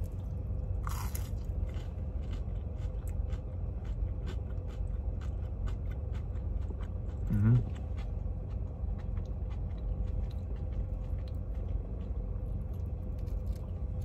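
A person biting into and chewing a crispy breaded chicken McNugget with closed mouth, a string of small crunching clicks throughout and a sharper crunch about a second in. A short rising hum of the voice about halfway through.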